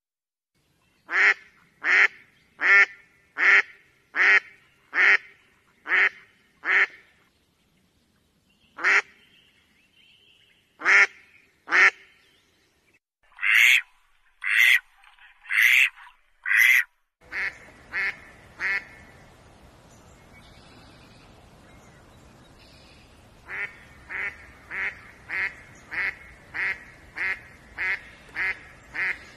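Philippine duck quacking: runs of short, loud quacks at about one and a half a second, broken by a few pauses. About halfway through, a faint steady hiss comes in under the calls.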